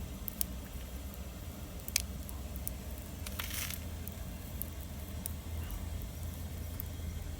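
Wood fire crackling: scattered sharp pops and snaps over a steady low rumble, with a short hissing burst about three and a half seconds in.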